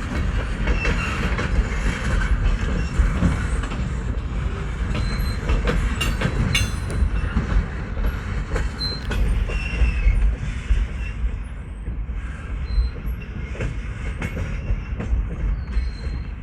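Slow-moving Union Pacific freight train of refrigerator cars rolling past, with a steady rumble of wheels on rail. Brief high wheel squeals come now and then, and a few sharp clicks sound about six seconds in.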